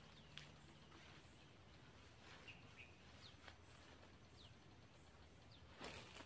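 Near silence with faint bird calls: several thin, short, falling chirps. A brief swish near the end as a fishing rod is cast.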